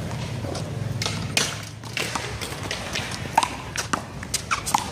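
One-wall handball play: a string of sharp, irregularly spaced slaps and taps as the small rubber ball is struck by hand and hits the wall and pavement. There are a couple of short squeaks near the end, over a steady low hum.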